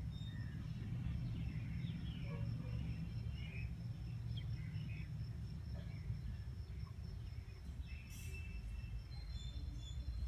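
Outdoor garden ambience: a steady low rumble with scattered short bird chirps, a thin steady high tone, and a brief click about eight seconds in.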